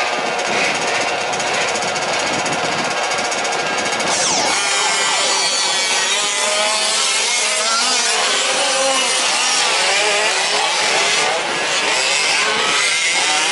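Small two-stroke petrol engines of 1/5-scale RC trucks: first one rattling steadily close by, then from about four seconds in several engines revving up and down at once, their overlapping whines rising and falling as the trucks race.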